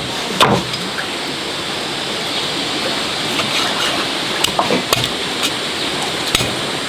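Steady rushing of water, with a few sharp knocks of kitchen utensils scattered through it.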